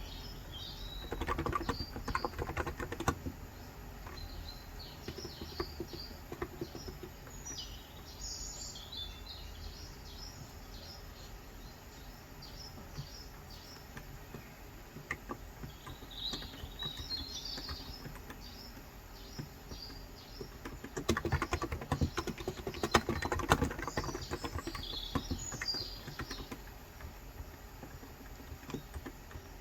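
Typing on a Cox Endeavour electro-capacitive tenkeyless keyboard with 35 g switches: two bursts of quick keystrokes, one about a second in and one a little past the middle. Small birds chirp on and off in the background.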